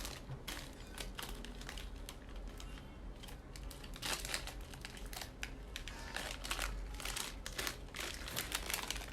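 Plastic snack packets crinkling and crackling in irregular bursts as they are handled and lifted out of a box.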